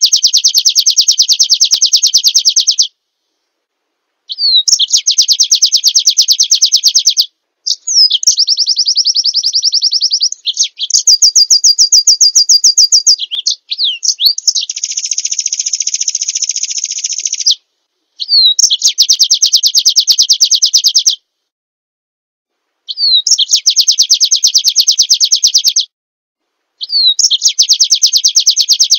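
Small songbird singing a fast trill phrase again and again: each phrase opens with a quick slurred note and runs as a rapid trill of high notes for two to three seconds, with dead silence between phrases. One phrase about halfway through is a denser, buzzier trill.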